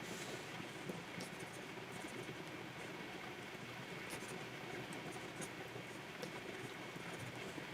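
Stylus nib scratching and tapping on the surface of a Wacom pen tablet during digital drawing, a few sharp little ticks among the strokes, over a steady background hiss.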